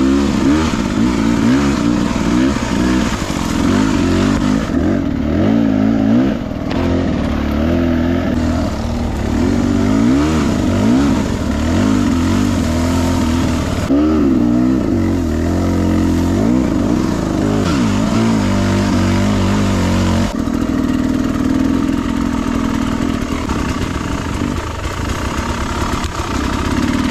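Beta 300RR two-stroke enduro dirt bike being ridden on a trail, its engine revving up and down again and again as the throttle is worked.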